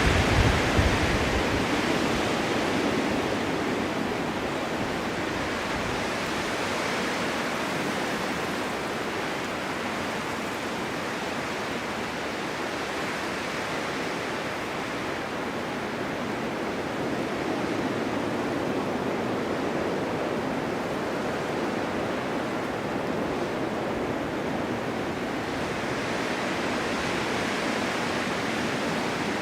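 Blizzard wind blowing steadily, a rushing noise that swells and eases slowly in gusts, strongest in the first second or so.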